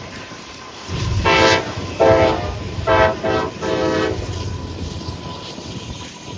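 Horn of a CSX CM44AH diesel locomotive leading a freight train, sounding a quick series of about four or five blasts in the first few seconds, over the low rumble of the train.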